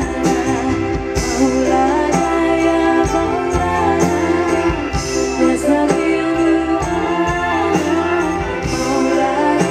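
Live band music with a voice singing over sustained chords, bass and a steady drum beat.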